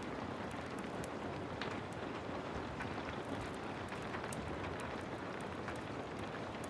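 Heavy rain falling steadily, a dense even hiss, with scattered sharp crackles and ticks of a wood fire burning in a fireplace.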